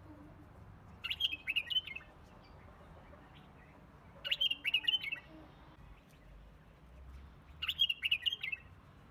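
A bird repeating the same short phrase of quick chirps three times, about three seconds apart.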